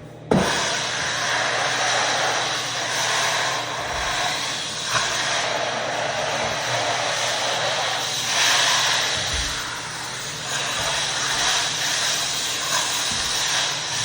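Floor buffer switching on with a knock and then running steadily, its pad working hard wax oil into sanded oak.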